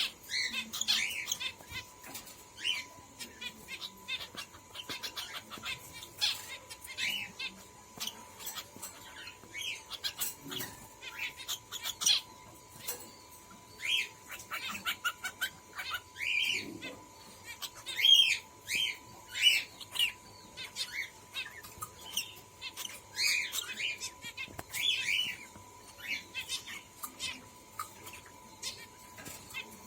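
Pet parrotlets ("falk") chirping in many short, repeated calls, with scattered clicks; the calls are shown as a sign that the birds are in breeding condition.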